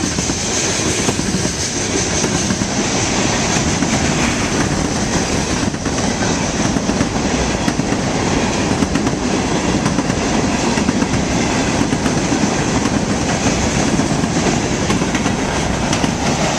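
Loaded freight cars, four-bay grain hoppers among them, rolling steadily past: a continuous rumble of steel wheels on the rails with rapid clickety-clack over the rail joints and a thin high whine over it.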